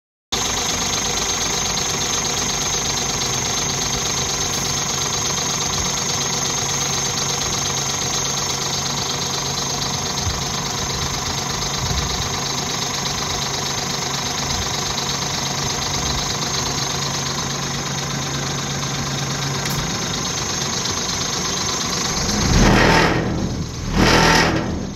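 Scania G370 truck's five-cylinder diesel engine idling steadily, then revved twice in quick succession near the end.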